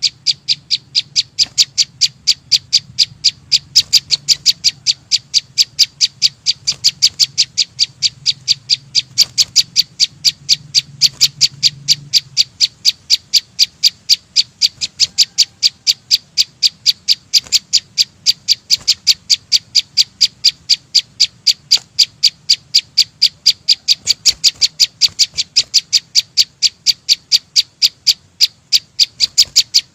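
A small bird, the chim sâu xanh, calling with short, sharp, high chirps in an unbroken, evenly spaced series of about three a second.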